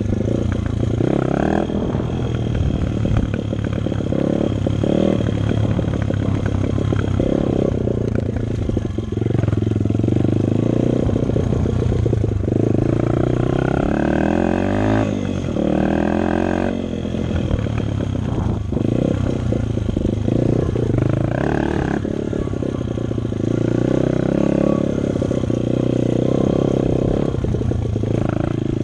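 Dirt bike engine running hard as the bike is ridden, the revs climbing and dropping over and over as the throttle is opened and closed.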